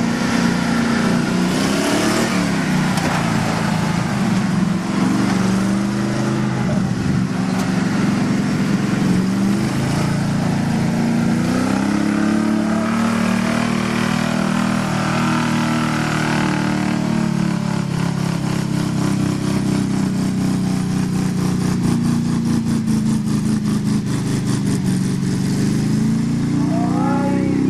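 Two mud-bog race trucks' engines revving hard through the mud pit, the pitch rising and falling as the throttles work, without a break until just at the end.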